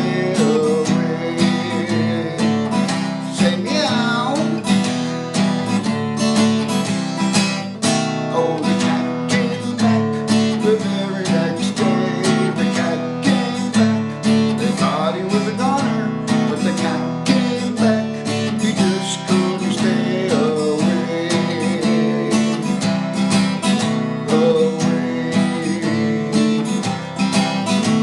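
Acoustic guitar strummed at a steady beat, playing an instrumental passage of the tune without words, with a few pitched lines sliding up and down over it now and then.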